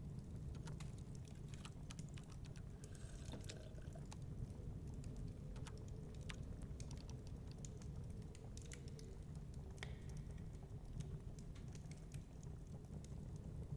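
Wood fire crackling in a fireplace, with irregular snaps and pops over a steady low rumble.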